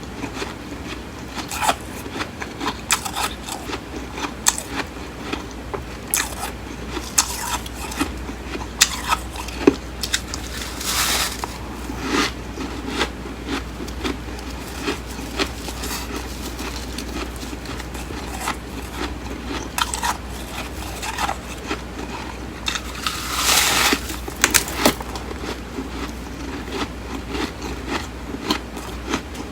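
Flaky freezer frost being bitten and chewed in big mouthfuls, crunching and crackling with many sharp, irregular snaps and two longer crunching spells, about a third of the way in and again past two thirds. A steady low hum runs underneath.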